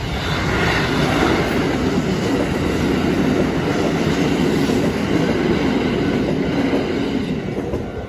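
A train passing close by on the tracks: a dense rushing rumble of wheels and running gear. It builds within the first second, holds steady, and eases off near the end.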